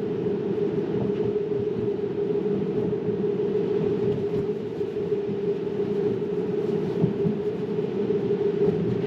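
Steady road and tyre noise heard inside the cabin of a moving Tesla Model 3, an electric car, so there is no engine sound, only an even low hum and rumble from the tyres on the road.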